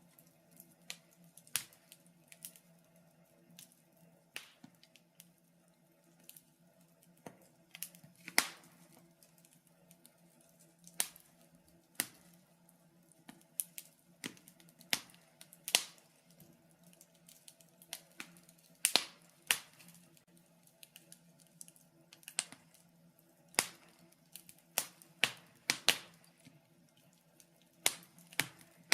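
Wood fire in a fireplace crackling: sharp, irregular pops and snaps, a few of them much louder than the rest, over a faint steady low hum.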